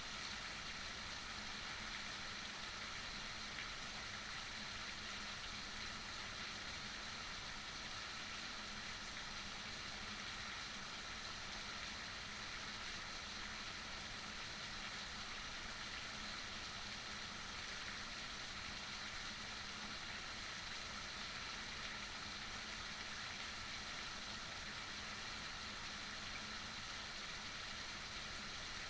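Heavy rain falling steadily: an even, unbroken hiss with no single drops standing out, over a faint low hum.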